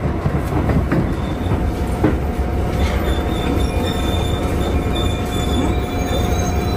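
Electric local train heard from inside the carriage as it slows into a station: steady running noise under the floor, with a high, thin squeal as it brakes from about halfway through until near the end.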